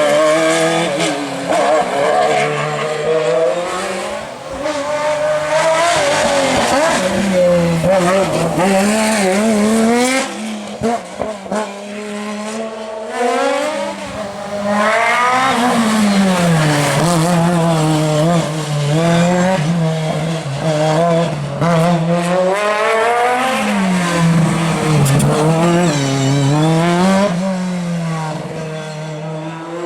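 Racing car engines at high revs on a hill climb: the pitch climbs and drops again and again as the cars accelerate through the gears and lift off for the bends. The sound fades somewhat between about ten and fourteen seconds in, then returns at full throttle.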